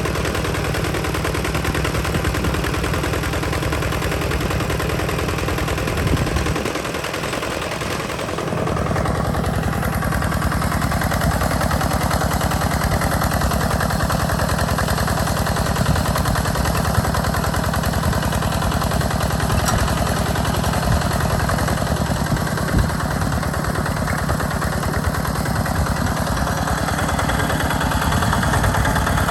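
Hinota walking tractor's single-cylinder diesel engine running steadily with a rapid, even chug while plowing. Its note changes briefly about seven seconds in, when the low thump drops away for a moment, then settles back.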